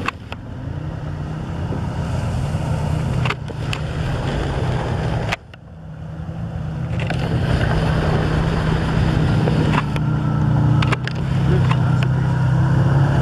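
CFMOTO Snyper 800 ATV engine running steadily as it drives through deep floodwater, with water swishing around it. The sound drops out sharply for a moment about five seconds in, then builds again.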